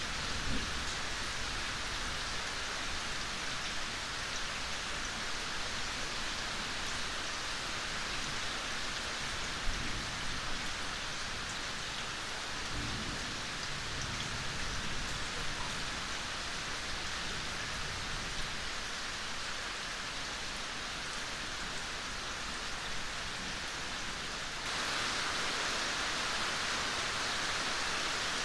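Steady rain, an even hiss with a few louder single drops, growing suddenly louder about 25 seconds in.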